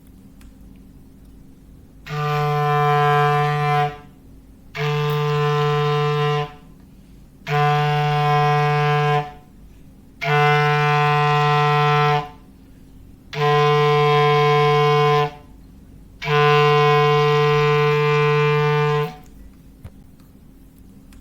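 Foghorn sound effect: six blasts on one low, steady note, each about two seconds long with short gaps between them, the last blast held a little longer.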